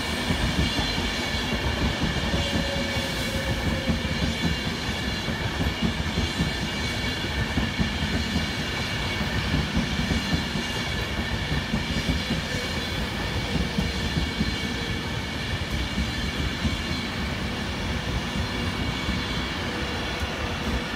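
Class 390 Pendolino electric train moving alongside the platform: a steady rumble of wheels on rail with a steady high-pitched whine in several tones.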